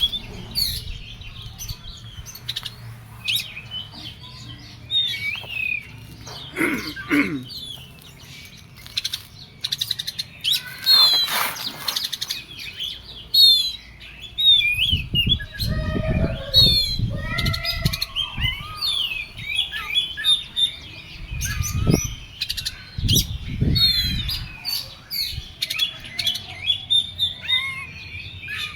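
Oriental magpie-robin (kacer) singing in an excited, agitated state: a fast, continuous run of sharp chirps and whistles. Low rumbling noise comes in now and then during the middle and second half.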